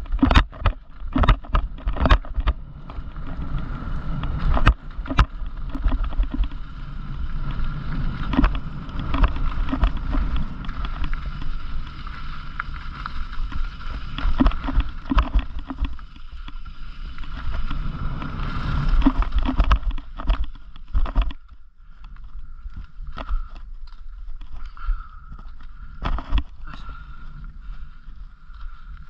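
Mountain bike ridden over a rough trail: tyre rumble and wind on the microphone, with many sharp rattles and knocks from the bike over bumps and a steady high hum throughout. The rumble and rattling ease off about three quarters of the way through.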